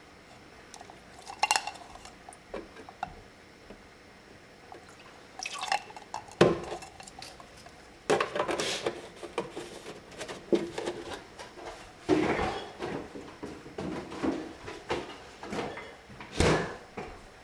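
Kitchen utensils and dishes clinking and clattering while cheesecake is prepared, in scattered bursts with short pauses between.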